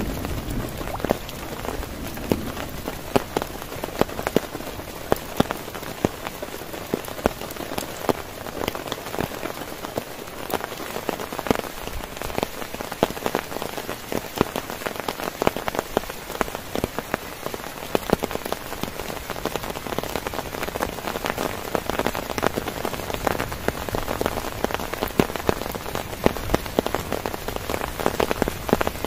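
Heavy rain drumming on a tent's fabric: a dense, steady patter with many sharp individual drop hits.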